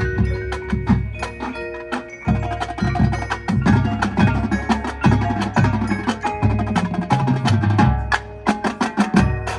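Marching showband playing, with drums and mallet percussion striking busily over held pitched notes.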